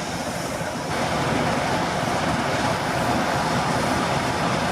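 Freight train hauled by two GE Dash 9 diesel locomotives rolling past, a steady, unbroken rumble of engines and wheels on rail.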